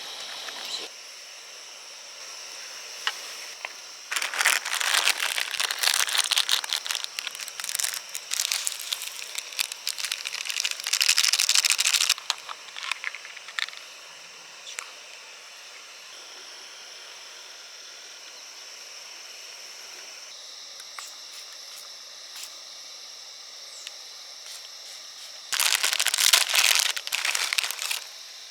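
Plastic packaging crinkling and rustling while being handled, in two long stretches, over a steady faint hiss.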